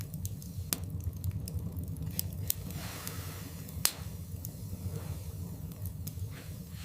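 Wood fire burning in a fireplace: a steady low rumble from the flames, with scattered sharp crackles and pops from the logs. The loudest pop comes about four seconds in.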